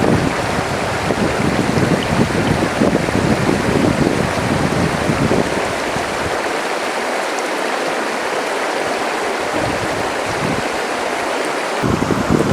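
A river or stream rushing steadily over rocks, with an irregular low rumble in the first half and again near the end.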